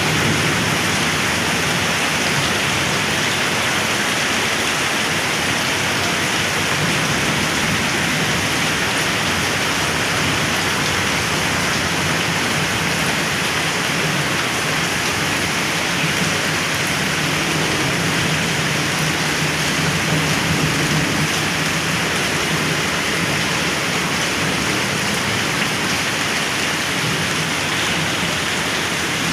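Heavy rain falling steadily, an even, unbroken hiss of drops hitting surfaces.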